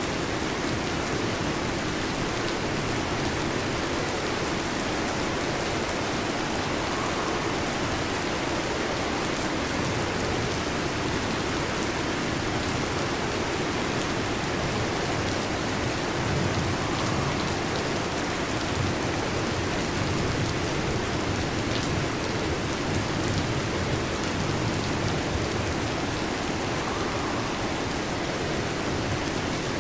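Heavy rain falling steadily on a metal roof: a dense, even patter with no let-up.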